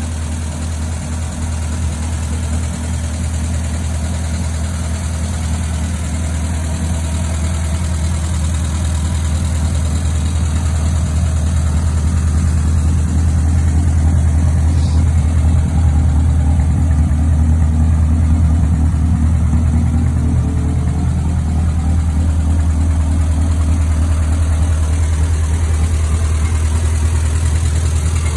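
1959 Triumph TR3's four-cylinder engine idling steadily, growing somewhat louder about halfway through.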